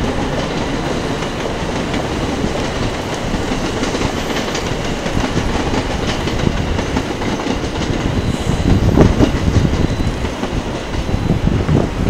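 A train running on the tracks at Tokyo Station, its wheels clattering steadily over the rail joints, a little louder about three quarters of the way through.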